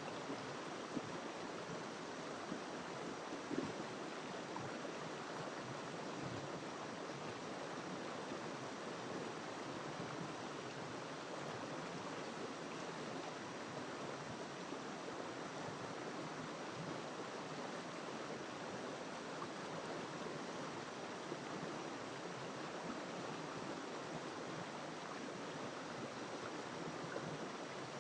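River water flowing steadily: an even, unbroken rush with now and then a faint brief splash.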